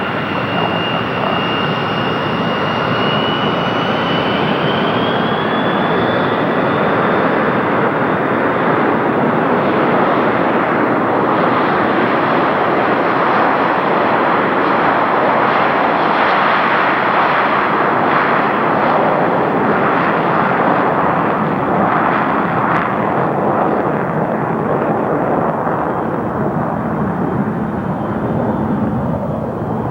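Airliner's turbine engines on takeoff: a high whine rises in pitch over the first several seconds as the engines spool up, then the engine noise of the takeoff roll swells loud and slowly fades.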